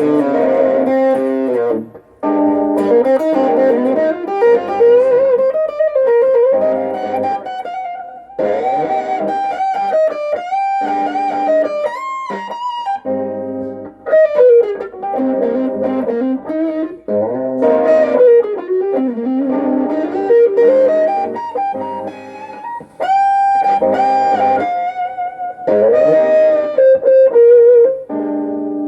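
Vintage V100 Lemon Drop electric guitar played through a Peavey Backstage Plus amp: improvised single-note lead phrases with string bends and vibrato, broken by brief pauses between phrases.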